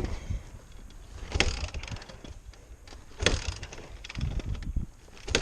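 Honda CRF100 dirt bike being kick-started without success: two sharp mechanical clatters of the kick lever turning the engine over, about two seconds apart, with smaller knocks around them. The engine never catches.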